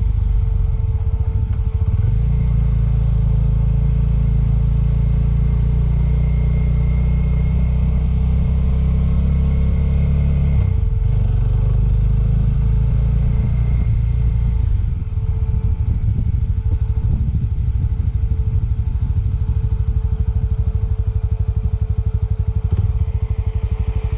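Suzuki Thunder 250 single-cylinder motorcycle engine running steadily under way. Its note shifts a few times, and it eases off about fifteen seconds in, when the separate firing pulses come through more plainly.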